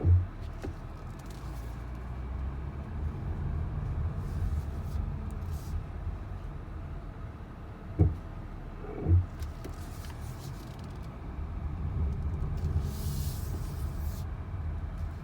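A 2019 Porsche Cayenne making the brake noise its owner is recording: a low rumble that swells and fades twice, with three heavy thumps (one at the start, then two about eight and nine seconds in) and a few short hisses.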